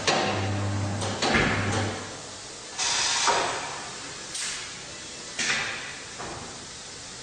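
Truck tyre changer at work: its motor hums steadily and stops about two seconds in, and metal clanks and scrapes follow several times as the machine's parts move and are handled.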